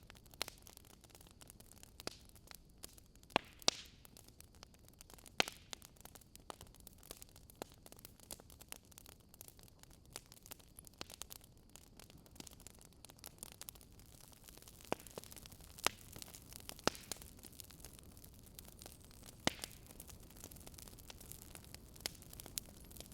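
Wood fire in a fireplace crackling: irregular sharp pops and snaps, a few louder than the rest, over a faint steady hiss.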